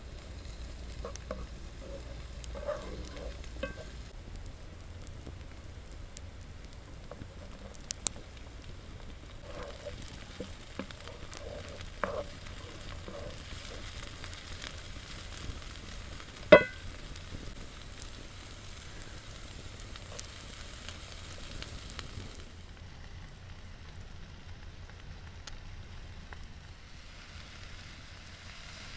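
Food frying in a pan over a wood fire, sizzling steadily, with scattered clicks and knocks of a utensil stirring it and one sharp clack a little past halfway.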